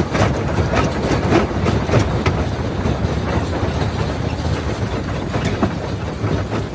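Primary jaw rock crusher running under load: a steady heavy rumble with irregular sharp cracks and knocks of stone breaking and clattering between the jaws, more frequent in the first few seconds.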